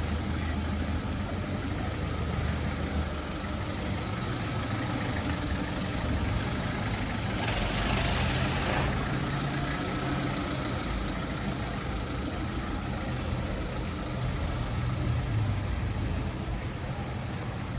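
Street traffic with a large vehicle's engine running steadily nearby, and a hiss about a second long a little before the middle.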